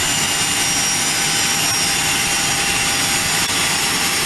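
Aircraft turbine engine running during startup: a loud, steady rushing noise with a steady high whine over it.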